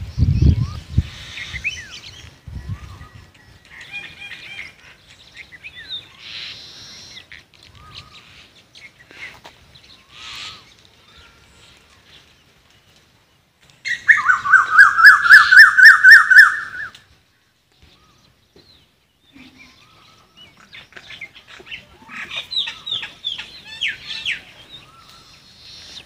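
Birds chirping and calling, with a loud, fast run of repeated high notes lasting about three seconds past the middle and a further cluster of chirps near the end.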